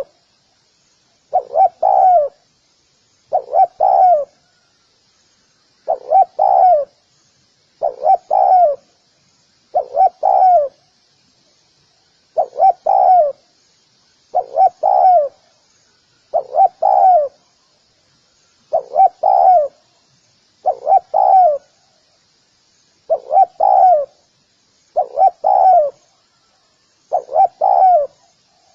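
Spotted dove cooing, repeating its short phrase of two or three close notes about once every two seconds, some thirteen times in a row.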